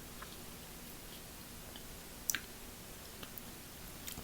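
Quiet eating of a seafood boil: faint chewing with a few small sharp clicks, the loudest about two seconds in.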